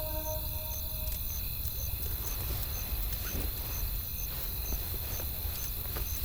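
Wood fire crackling, with scattered sharp pops over a low steady rumble. A high chirp repeats about twice a second throughout, and the last notes of music fade out about a second in.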